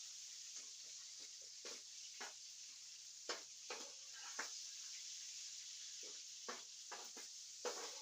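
Chicken hearts frying in oil in a frying pan: a steady faint sizzle with irregular sharp pops and crackles.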